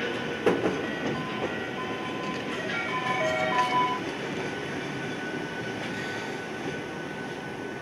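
Ohmi Railway electric train running, with a steady rumble and a sharp knock about half a second in.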